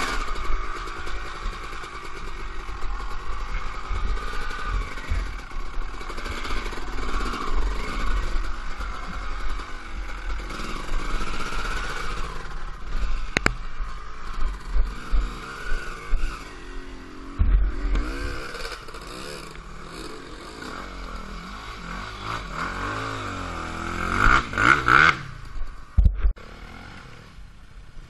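Dirt bike engine running and revving up and down as the bike is ridden, with steady low wind rumble on the microphone and a few knocks.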